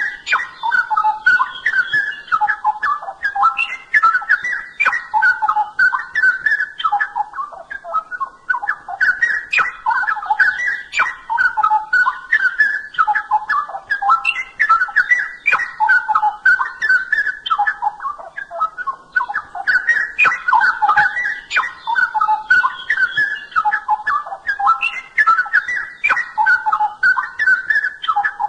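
Straw-headed bulbul (cucak rowo) singing loud, bubbling whistled warbles in long phrases with brief breaks, with a fainter, higher chattering above them.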